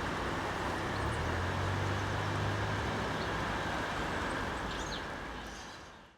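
Steam-hauled train running on past, heard as a steady rumble with a low hum for a couple of seconds, fading out at the end.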